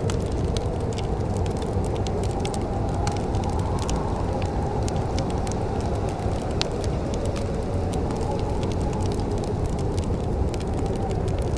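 Wood fire crackling in a fireplace: frequent irregular sharp pops and snaps over a steady low rumble, with one louder pop about two-thirds of the way through.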